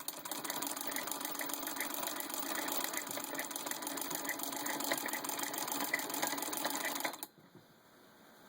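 Hand-cranked Singer 66-4 sewing machine running with a Singer 121021 pinking attachment, the pinker blade chopping through denim: a steady mechanical clatter with regular clicks. It stops suddenly about seven seconds in.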